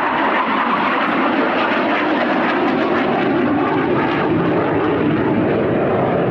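Jet fighter flying a display pass: a loud, steady roar whose pitch slowly falls as it goes by.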